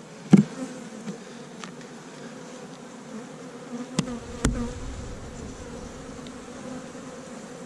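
Honey bees buzzing steadily around an open hive, stirred up by the inspection. A few sharp knocks sound over the buzzing, about half a second in and again around four and a half seconds in.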